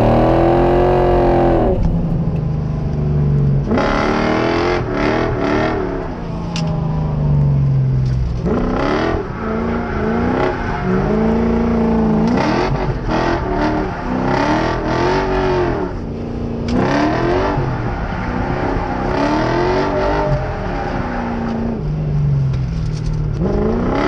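Lexus 1UZ V8 in a Mazda B2200 drift truck revving hard and dropping back again and again, the engine note climbing and falling every second or two, while the truck is drifting.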